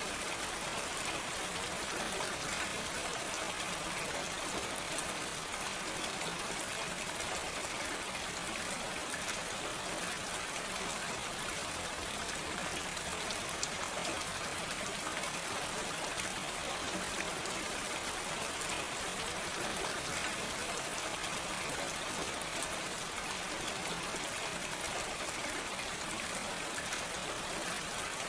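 Steady gentle rain, an even hiss of falling drops with fine scattered patter and no thunder.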